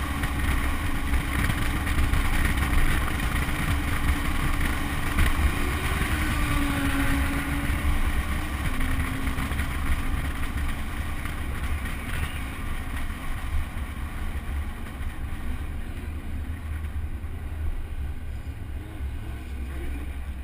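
Supercharged V8 muscle car rolling slowly at low speed, with its engine's low rumble and wind buffeting the car-mounted camera's microphone. The sound eases off slightly in the second half.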